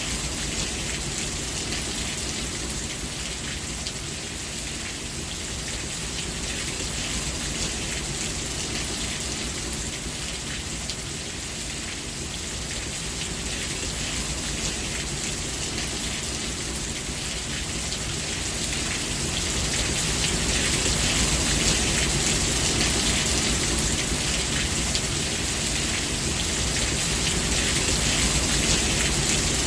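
Steady rain falling and pattering on surfaces, swelling slightly louder about two-thirds of the way through.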